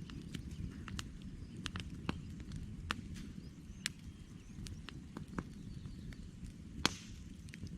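Wood campfire crackling: irregular sharp pops and snaps over a steady low rumble, with one louder pop near the end.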